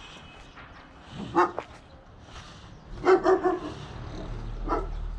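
A dog barking: a single bark, then three quick barks in a row, then one more near the end.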